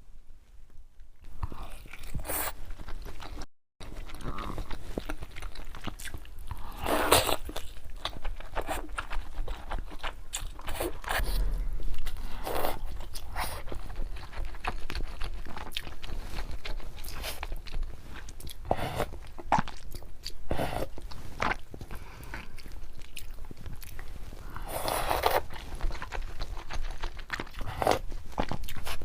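Mouth sounds of eating luosifen rice noodles with a fried egg: continuous chewing and crunching, broken by a few longer noisy stretches of slurping noodles.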